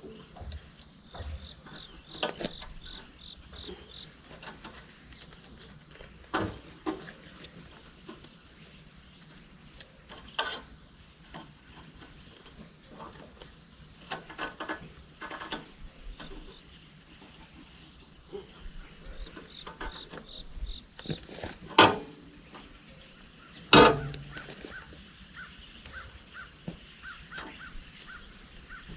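Steady high-pitched chirring of insects such as crickets, with a few scattered sharp knocks, the two loudest close together about three quarters of the way in.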